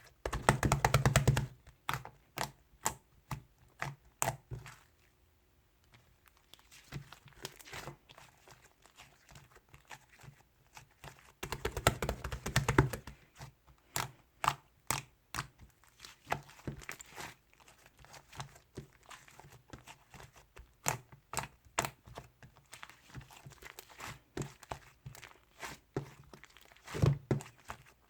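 Irregular taps, clicks and crinkling handling noises in a small room, with denser, louder bursts of rustling near the start, about twelve seconds in, and near the end.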